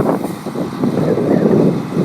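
Volvo A25D articulated dump truck's diesel engine running, with a dense, loud rumble.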